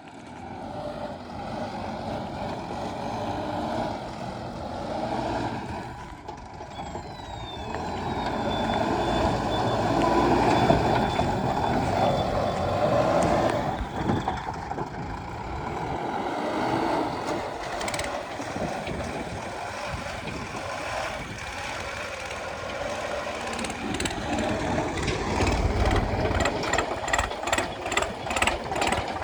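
Diesel engine of a JCB 3DX backhoe loader running under changing load while it digs and loads mud. About seven seconds in a thin high whine rises and holds for several seconds, and near the end a fast run of rattling clicks joins the engine.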